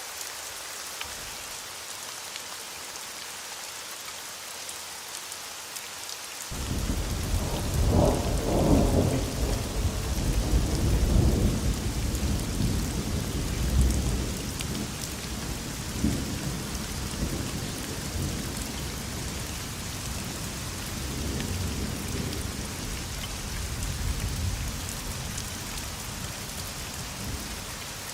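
Steady rain hissing throughout. About a quarter of the way in, a long roll of thunder breaks in suddenly. It is loudest over the next few seconds, then rumbles on in waves and slowly dies away.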